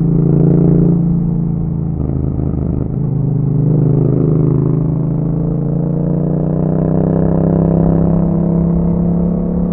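Yamaha MT-07's parallel-twin engine running through an Akrapovic exhaust under way. The note breaks up briefly about two seconds in, then rises slowly and steadily in pitch as the bike accelerates.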